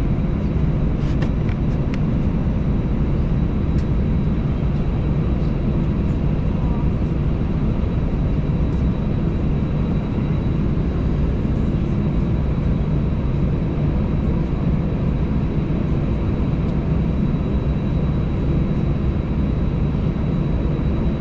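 Steady cabin noise inside an Airbus A320 taxiing on the ground: the jet engines running at low taxi thrust under a continuous low rumble, with a faint steady whine over it.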